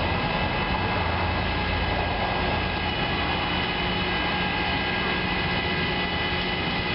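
Steady vehicle traffic noise: engines running and idling in gridlocked traffic on a flooded road, a low, even rumble.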